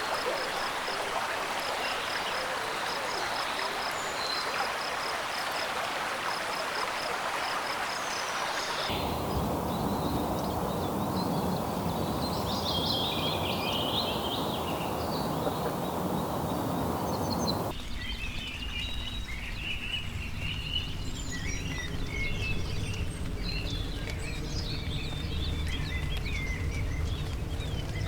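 Forest ambience that changes abruptly twice. First rushing water with a rapid, evenly repeated high pipping call. Then bird calls over a softer hiss. Last, many short bird chirps and calls over a low rumble.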